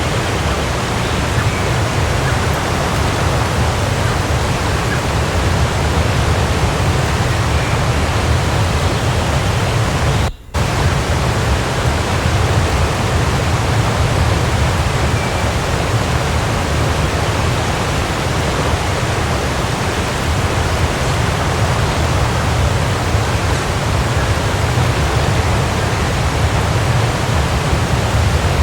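Waterfall rushing steadily, a dense even roar heaviest in the low end. The sound drops out for a split second about ten seconds in, then carries on unchanged.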